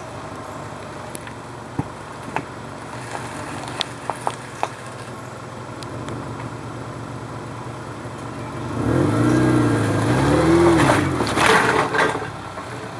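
1999 Subaru Forester's flat-four engine running low on a rocky climb, with a few sharp knocks from rocks under the car. It then revs up and down twice about two-thirds of the way in, followed by a harsh scrabbling burst near the end as the tyres fight for grip.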